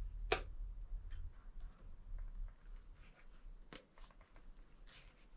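Handlebar grip being worked onto a motorcycle handlebar by hand: faint rubbing and handling noises, with two sharp clicks, one just after the start and one a little past halfway.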